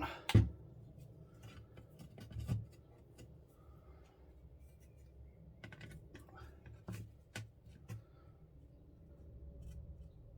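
Scattered clicks, taps and scraping of small plastic and metal kit parts and tools being handled on a workbench, with one sharper knock just under half a second in.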